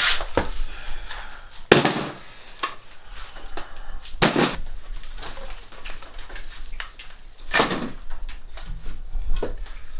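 Split firewood being handled and tossed onto a pile: a series of wooden knocks and clatters, the three loudest about two, four and seven and a half seconds in.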